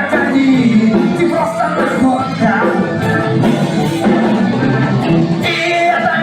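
A band playing a song, with a singer's voice carried over the instruments.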